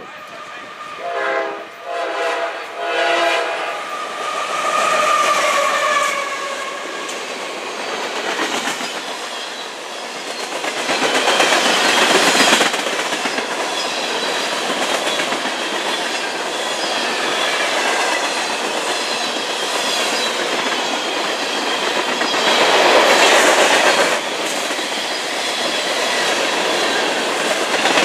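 CSX freight train passing at speed: the locomotive horn sounds in a few short blasts and then a longer one as it approaches, followed by the steady rumble and clatter of the freight cars rolling by, swelling louder twice.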